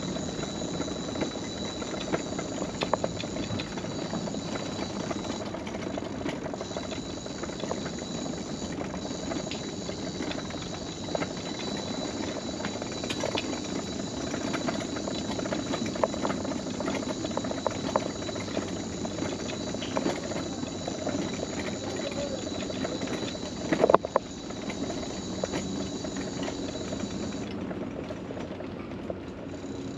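Electric mobility scooter rolling along a wooden boardwalk: a steady motor hum with a thin high whine, broken by irregular clicks and knocks, with a louder knock about 24 seconds in.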